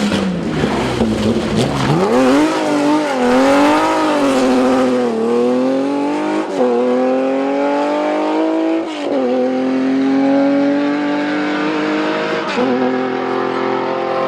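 Rally car engine at full throttle: the revs drop and then rise and fall unevenly, as through a corner, before the car accelerates hard through the gears with three quick upshifts, the pitch climbing and dropping at each shift.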